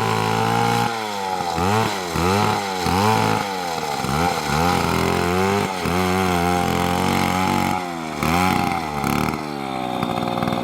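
Two-stroke chainsaw engine being revved up and down over and over, its pitch rising and falling every second or so.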